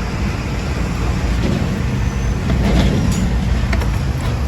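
Steady low rumble of background vehicle noise, with a few light metallic clicks as scooter transmission parts are handled.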